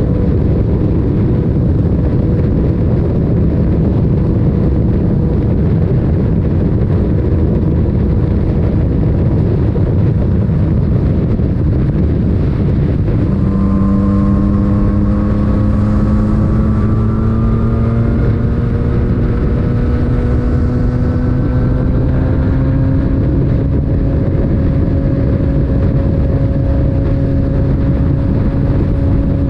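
Yamaha MT-09's inline-three engine running through an Akrapovic titanium exhaust at riding speed, under heavy wind rumble. About halfway through, a steady engine note comes up clearly and climbs slowly in pitch.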